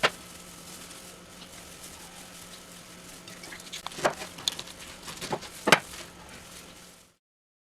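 A few sharp knocks and clacks, three or four in all, like kitchen utensils handled during cooking, over a faint steady hum; the sound cuts off abruptly near the end.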